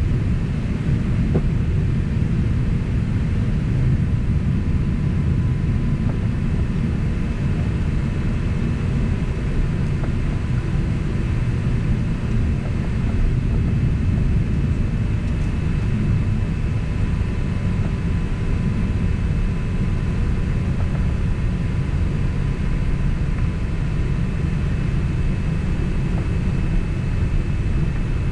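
Steady cabin noise inside a Boeing 767 taxiing after landing: a low rumble of the engines and the rolling airframe, with a faint steady whine above it.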